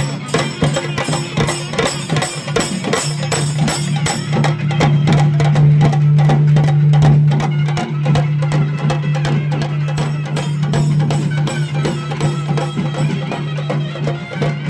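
Chenda melam: chenda drums beaten in fast, dense strokes over a steady low drone, which breaks off briefly about three seconds in.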